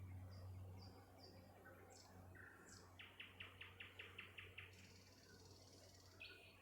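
Nightingale singing at night: a few short high notes, then a fast run of about nine loud, even strokes, then a buzzing high trill and one more note near the end.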